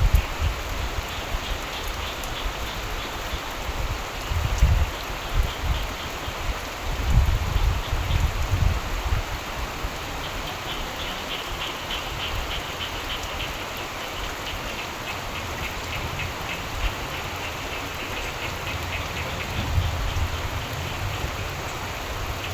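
Steady rain, with frogs calling in a fast pulsing chorus that grows stronger about halfway through. Deep low rumbles of distant thunder swell up several times, most strongly in the first half and again near the end.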